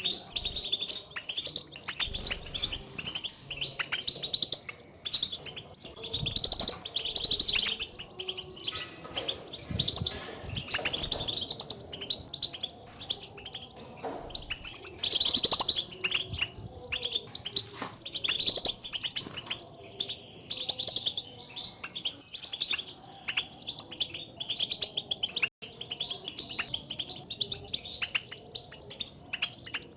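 European goldfinches giving rapid, twittering contact calls (the 'batbata' call, not full song), a dense run of short high chirps without pause. These are the calls used to stimulate a caged goldfinch to sing.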